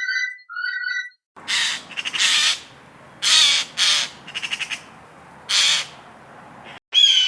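A bird giving a series of about six harsh, cawing calls, some broken into quick stuttering rattles. Before them, at the very start, there are a few clear whistled notes.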